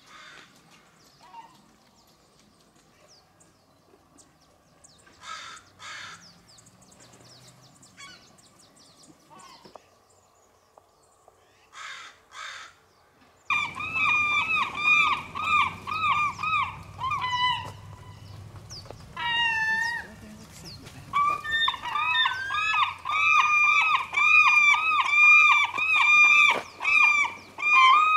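A bird calling in long, loud series of rapid repeated notes, about four a second, starting about halfway through after a quiet stretch; the series pauses briefly for a few differently shaped notes, then resumes.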